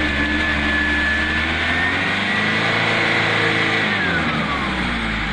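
Truck engine revving hard, its pitch rising and falling, with a high whine that holds steady and then glides down about four seconds in.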